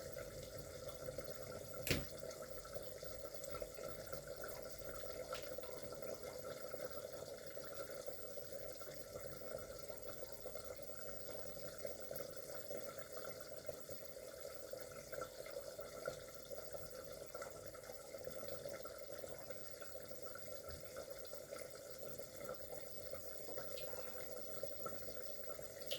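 Steady, low watery bubbling of food cooking in a pot on the stove. A sharp click comes about two seconds in, and a few faint ticks follow.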